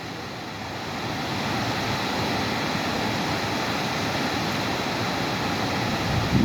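Waterfall's steady rushing water, growing a little louder over the first two seconds.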